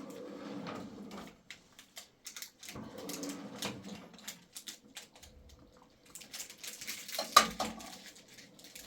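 Dishes and utensils being handled: scattered clinks and knocks, with one sharp clink about seven seconds in.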